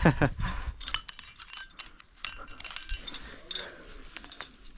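Metal climbing hardware, carabiners and gear on a harness, clinking and jangling in a string of small irregular clicks.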